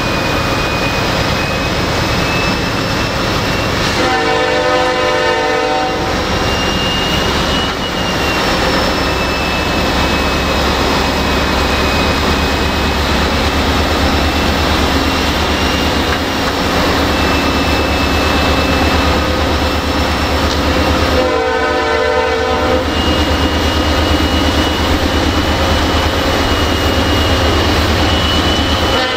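Norfolk Southern diesel freight locomotives passing slowly at close range, their engines running with a steady low rumble and a thin high whine over the top. A train horn sounds two long blasts, about four and about twenty-one seconds in, and a third starts at the very end.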